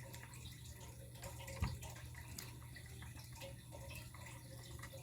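Faint handling noise as a toy garbage truck is put down: a few small clicks and one soft knock about one and a half seconds in.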